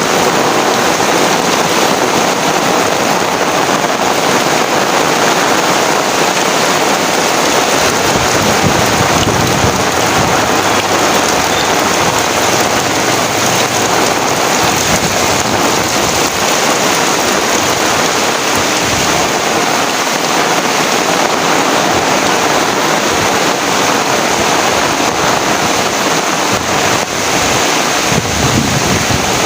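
Heavy rain pouring steadily, a dense continuous hiss of drops hitting surfaces, with gusts of wind adding low rumbles now and then.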